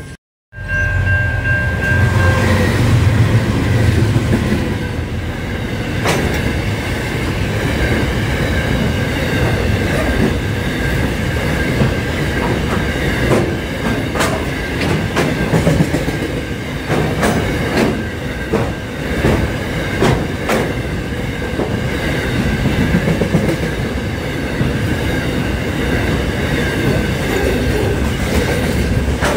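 Freight train of container wagons rolling past close by: a steady rumble with the wheels clattering over rail joints, and a steady high squeal running over it.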